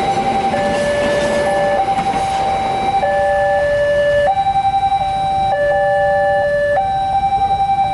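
Electronic warning alarm at a railway level crossing, sounding a repeating pattern of alternating high and low tones. The noise of a passing train fades out during the first half.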